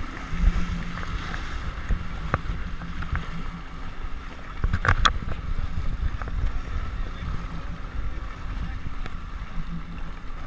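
Jet ski engine running at low speed with a steady low hum, over wind on the microphone and water sloshing against the hull. A short loud sound breaks in about halfway through.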